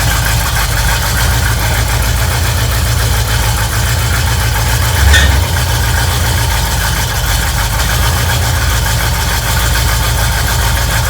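Chevrolet 350 small-block V8 of a 1968 El Camino idling steadily, with one brief louder blip about five seconds in.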